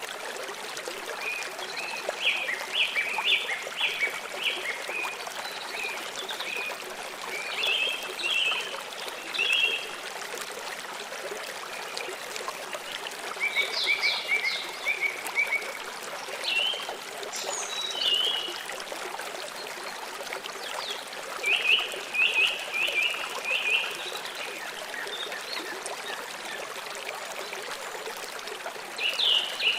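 Steady flowing water, with bursts of short, quickly repeated bird chirps over it several times.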